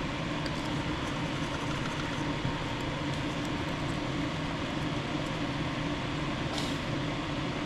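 Steady fan-like whir of running machinery, with a short hiss about six and a half seconds in.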